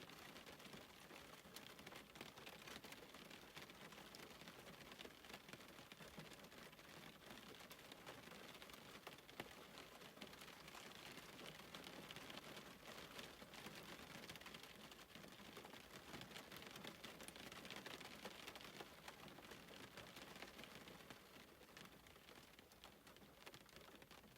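Faint, steady rain patter with many light scattered ticks, easing a little near the end.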